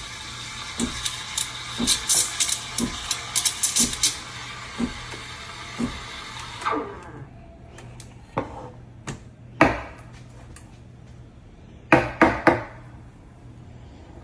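Espresso machine steam wand hissing into a milk pitcher with sharp crackles, cutting off about six and a half seconds in. Then a few separate knocks and clinks of dishware, one loud single knock and a quick cluster near the end.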